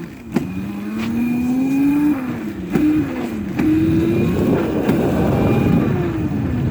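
Dirt bike engine pulling away and accelerating, its pitch climbing and dropping back several times as it changes up through the gears, then running rougher at a steadier speed and easing off near the end.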